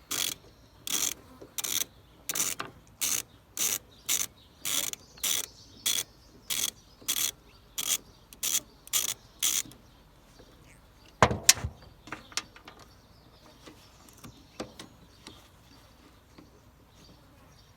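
Ratchet wrench being worked back and forth on a fastener, about two strokes of quick clicking a second for roughly ten seconds, while the solenoid is being taken off the starter. Then a single loud clunk and a few faint clicks.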